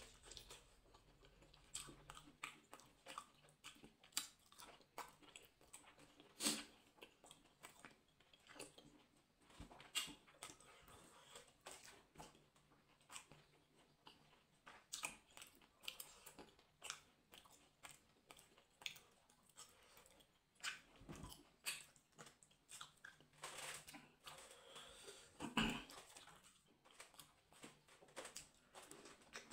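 Faint chewing and biting of food eaten with the fingers: irregular short wet clicks and smacks, the loudest about a fifth of the way in and again near the end.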